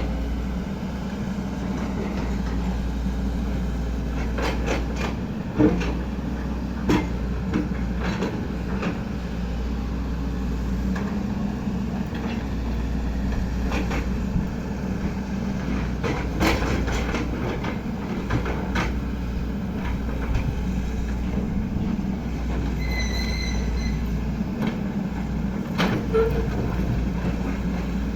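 XCMG 75 excavator's diesel engine running steadily under work, with scattered metallic clanks and knocks from the machine and a short, high squeal about two-thirds of the way in.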